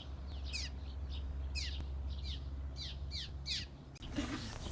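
Birds calling: a string of short, quick calls, each sliding downward in pitch, overlapping one another. About four seconds in, a noisier layer with low notes comes in beneath them.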